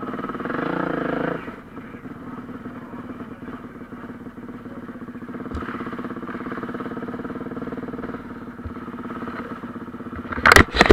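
Motocross bike engines running, louder for the first second or so and then a steady, lower hum. Two brief loud bursts of noise come near the end.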